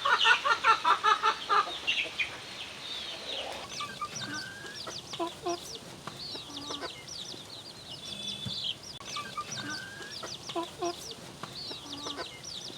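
Domestic chickens clucking: a rapid run of loud clucks in the first two seconds, then softer clucks mixed with many short, high, falling peeps of young chicks.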